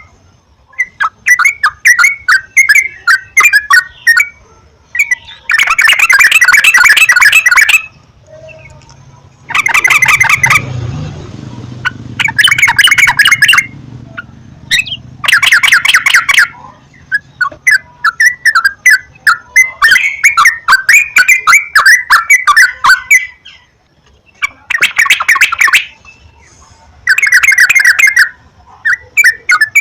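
Sooty-headed bulbuls (trucukan) singing and chattering: loud bouts of rapid chirping notes, each lasting a second or two, with short pauses between them.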